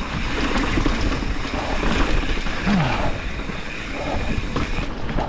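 Wind buffeting the camera microphone over the steady noise of a mountain bike rolling down a wet, rocky trail.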